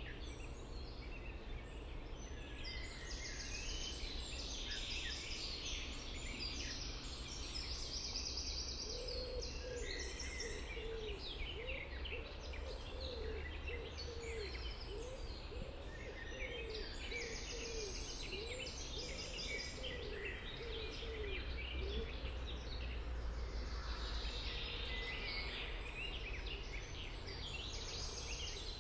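Several songbirds singing at once, with overlapping chirps and trills throughout. For much of the middle, a lower call repeats about once or twice a second, each note rising and falling. A steady low rumble runs underneath.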